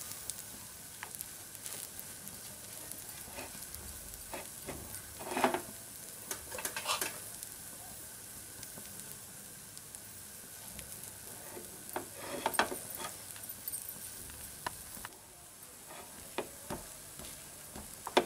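Dosa batter sizzling steadily in oil on a hot pan, a little quieter after about 15 seconds, with a few brief taps and scrapes as potato stuffing is spooned and spread over it.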